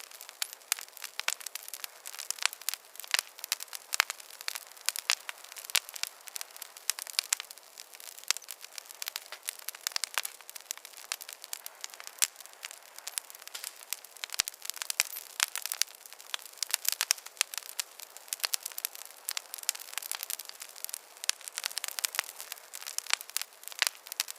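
Wood fire crackling: a dense, irregular run of sharp pops and snaps over a faint hiss of burning.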